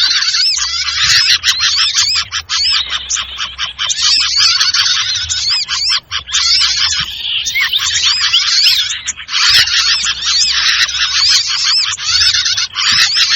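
A recorded bird-luring call of sirtu birds: a dense, noisy chorus of many overlapping rapid high chirps and twitters, with brief lulls about six and nine and a half seconds in.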